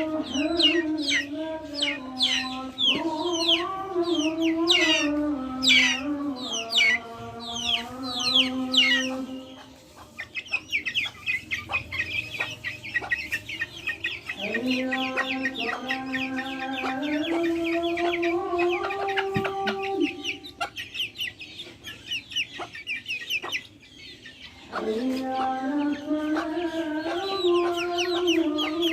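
Backyard chickens making long, drawn-out calls that step up and down in pitch, in three spells with short gaps between. Wild birds chirp quickly and high over them throughout.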